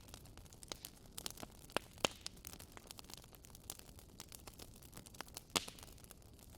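Wood fire in a fireplace crackling: irregular sharp pops and snaps over a faint steady hiss, with two louder pops, one about two seconds in and one near the end.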